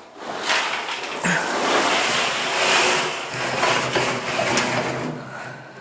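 A shovel scraping through and tipping loose material, a loud, rough, rattling hiss that starts just after the beginning and eases off near the end.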